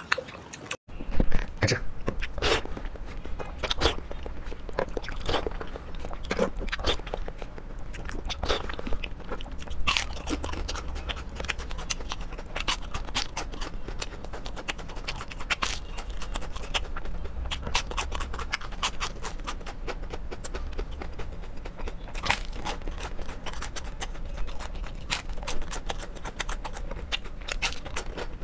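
Close-up crunching and chewing of crispy breaded fried food, with sharp, irregular crunches bite after bite over a steady low hum.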